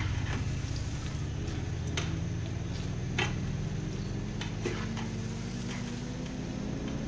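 Daddies (small pieces of dough) frying in hot oil: scattered short crackles and clicks over a steady low hum.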